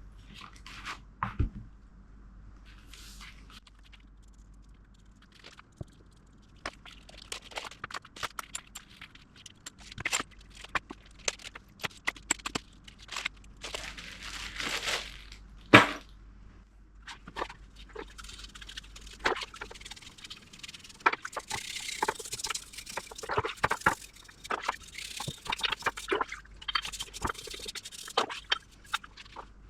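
Plastic bags crinkling and rustling while small metal engine parts clink and knock as they are handled and bagged, with one sharp knock about halfway through.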